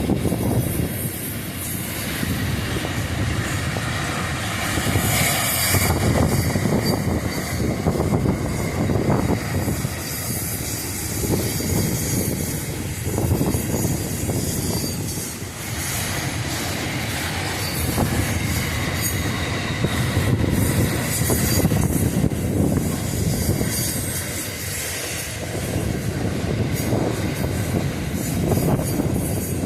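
Freight train wagons rolling past, the wheels clattering over the rail joints in a steady run of clicks. At times the wheels squeal, high-pitched.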